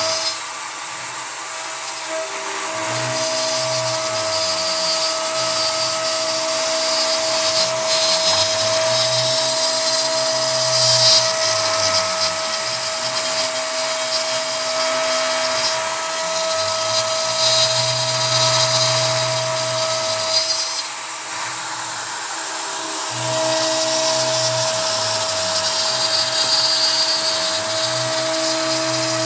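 CNC router at work: the Kress router spindle runs with a steady high whine while the stepper motors hum, rising and falling in repeating passes of a few seconds each, as a 3 mm end mill cuts pine. The spindle whine drops out for about two seconds a little past the middle.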